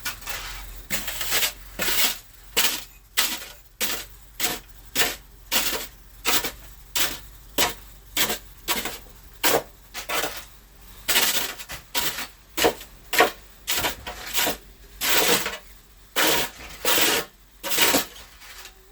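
Footsteps crunching through snow in a steady walking rhythm of about two steps a second, with a few longer, drawn-out crunches past the middle.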